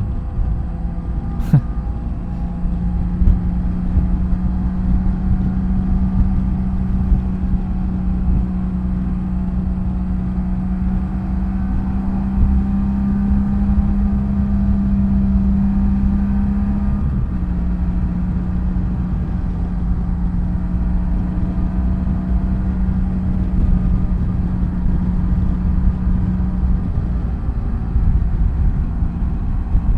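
BMW F800GS parallel-twin engine running steadily at cruising speed, a steady note over a low rumble. The note rises a little, then drops suddenly a bit past halfway as the throttle eases or a gear changes.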